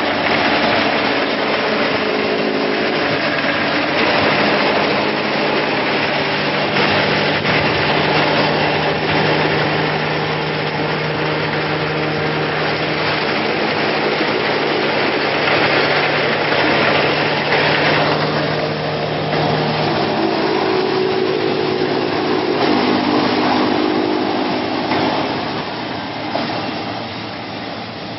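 YF-70 automatic square silage baler running: a steady mechanical drone with humming tones that shift in pitch now and then, a little quieter near the end.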